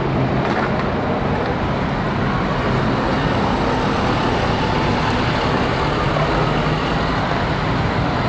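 Steady bus engine and road traffic noise at a constant level, cutting in and out abruptly.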